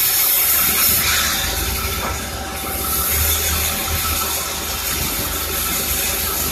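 Sawmill saw and machinery running with a steady hum and a loud high hiss as the blade cuts wood; the hiss eases about a second in and comes back strongly about two and a half seconds in.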